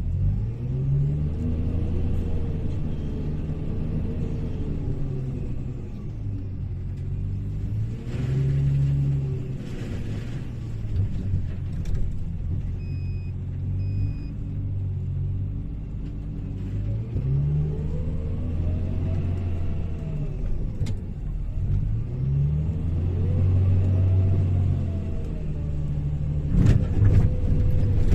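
Hyundai HL780-7A wheel loader's diesel engine working through loading cycles, its revs rising and falling again and again under load. Sharp knocks come near the end.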